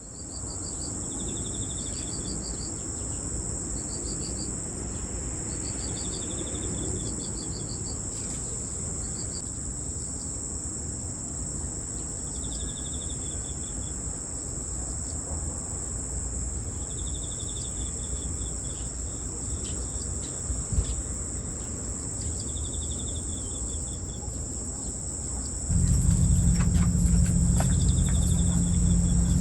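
Night chorus of grass insects: a steady, high continuous trill, with another insect's short pulsed chirps repeating every few seconds. Near the end a loud, steady low hum comes in and stays.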